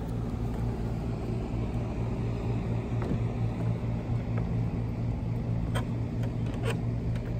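A car driving, its engine and road noise making a steady low drone.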